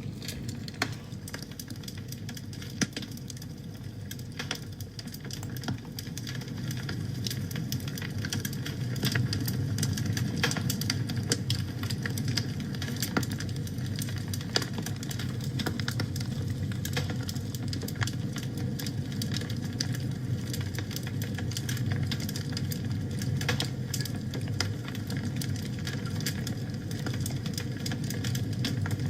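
Wood fire burning in a fireplace: a steady low rumble of flames with frequent, irregular sharp crackles and pops, growing a little louder about eight seconds in.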